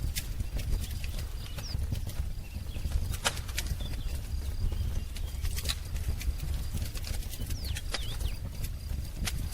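Wood fire crackling, with irregular sharp pops over a low steady rumble. A few faint, brief bird chirps come through, about two seconds in and again near the end.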